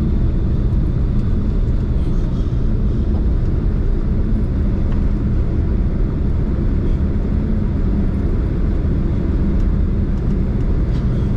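Steady cabin noise inside a Boeing 767 airliner: a constant low rumble of the engines and the rush of air and rolling, with a faint steady hum and a few light rattles.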